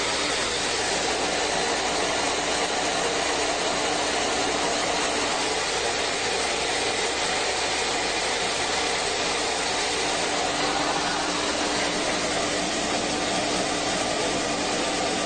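Vacuum cleaner motor running steadily: a loud, even rushing noise with a faint steady hum underneath.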